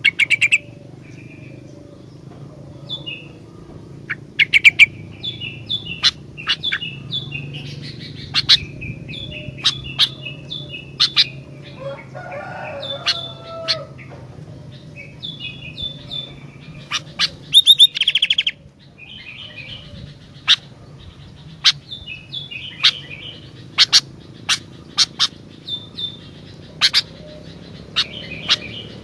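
Sooty-headed bulbul (kutilang) singing: repeated short chirps and whistled phrases with sharp, loud notes every second or two, over a steady low hum.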